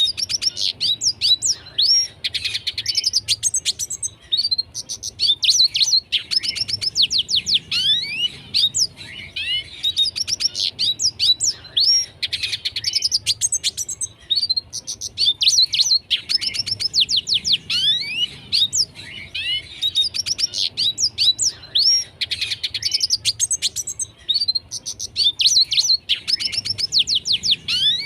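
Red siskin singing steadily: long twittering phrases of quick rising and falling notes mixed with rapid trills, repeated with short pauses between them.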